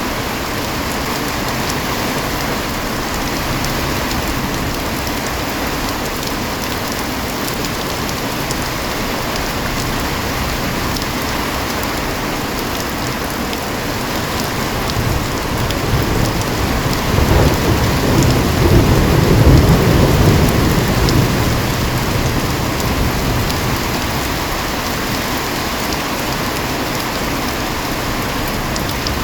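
Heavy rain falling steadily. About halfway through, a low roll of thunder builds, peaks and fades away over several seconds.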